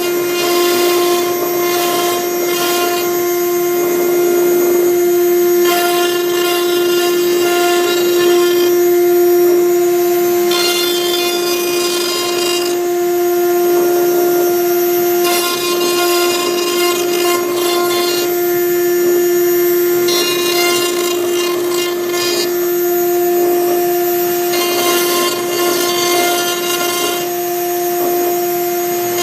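6090 CNC router's spindle running with a steady high whine while its V-bit cuts into MDF. The rasp of the cut comes and goes every few seconds as the head moves between strokes.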